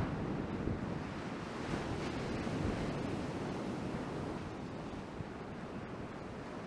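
Ocean surf washing steadily, with wind buffeting the action camera's microphone.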